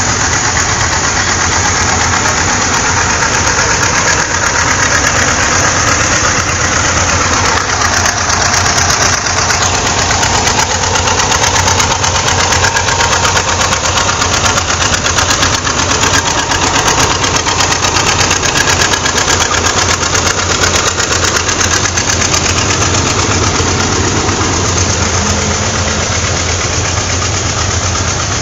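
Antique farm tractor engines running steadily at parade pace, a loud continuous run of rapid, even firing pulses over a low hum.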